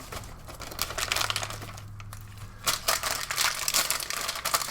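Plastic MRE accessory-pouch packaging crinkling and rustling in irregular crackles as the packets inside are handled and sorted.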